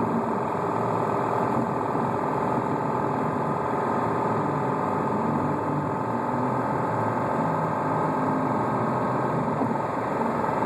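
Subaru Outback boxer engine running steadily with a rapid, constant rod knock, heard from inside the cabin. The knock comes from a spun connecting-rod bearing.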